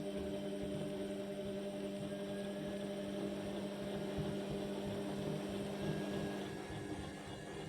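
Indesit My Time washing machine running with a steady electrical hum, one strong low tone with a few higher overtones, easing off slightly near the end.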